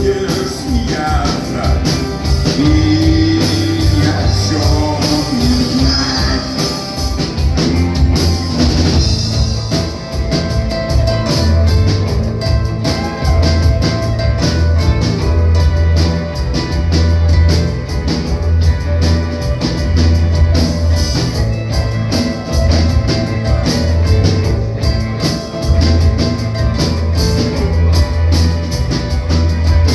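Live rock band playing an instrumental passage of the song, with drum kit, bass and guitar keeping a steady beat. A bending melodic line stands out over the first several seconds.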